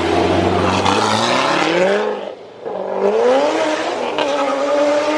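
A car's engine accelerating hard, its revs climbing, then a brief dip at a gear change about two and a half seconds in, and pulling up through the next gear before holding at high revs.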